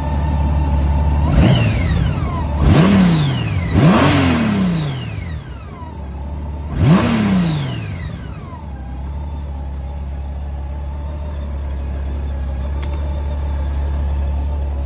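2008 Honda Gold Wing's flat-six engine idling and being blipped four times, each rev rising quickly and falling back to idle: three about a second apart, then one more a few seconds later. A faint steady whine runs under the idle.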